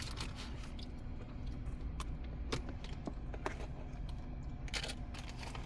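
Quiet steady low hum with a scattering of small sharp clicks and taps.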